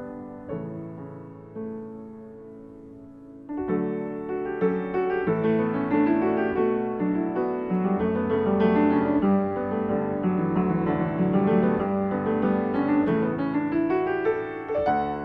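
Yamaha U100 upright piano being played: a soft, thin passage for the first few seconds, then about three and a half seconds in the playing turns suddenly louder and fuller, with dense chords and running notes.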